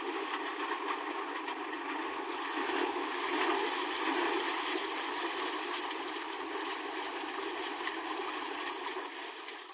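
Left Volvo Penta AQAD31 four-cylinder turbo diesel marine engine running steadily at idle, just after start-up, a little louder in the middle.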